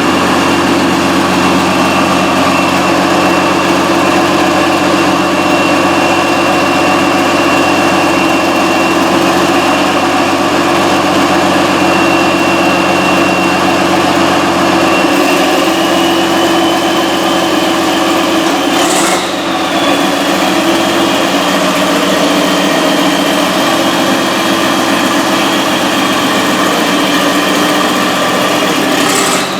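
Freshly in-frame rebuilt John Deere 6068 inline-six diesel engine running steadily and loudly. Its speed shifts slightly about halfway through.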